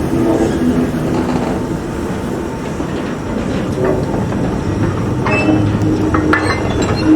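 Steam-hauled heritage train running on the line, its wheels clattering over the track. From about five seconds in come short metallic clanks and brief squeals.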